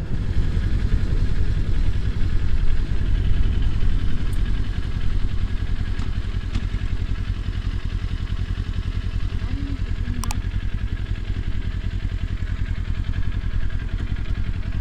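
Kawasaki Ninja 400's parallel-twin engine running steadily, with a brief click about ten seconds in.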